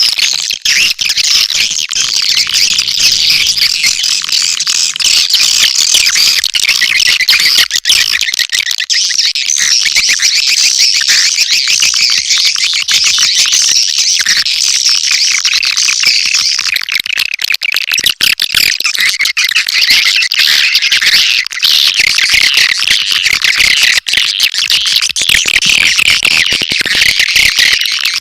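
Dense, continuous chattering and chirping of swiftlets, a swiftlet-house lure call recording of the kind played to draw the birds in to nest.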